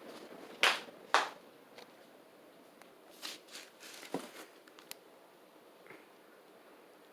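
Handling noise: two loud short scuffs about half a second apart, then softer rustles and a sharp click around four seconds in.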